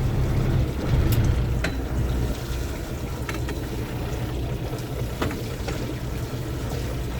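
Small fishing boat's engine idling in neutral, a steady low rumble, with a few faint knocks.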